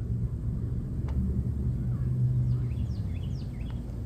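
Outdoor ambience: a steady low rumble, with a small bird chirping a few short notes around the middle.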